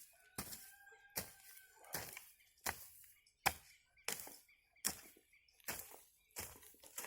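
A hoe chopping into garden soil in steady, evenly spaced strokes, about one every three-quarters of a second.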